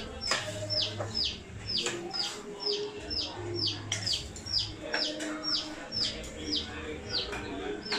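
A bird chirping over and over: short high notes that each fall in pitch, about two a second.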